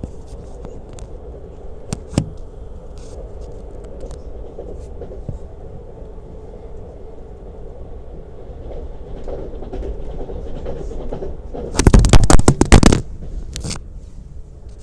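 Lastochka (Siemens Desiro RUS) electric train under way: a steady running rumble of wheels on rails with scattered clicks. About twelve seconds in there is a loud burst of rapid wheel clatter, lasting about a second, the loudest thing heard.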